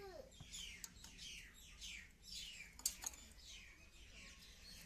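Faint bird chirping: a run of quick, high, falling chirps, about two a second, with a few sharp clicks among them.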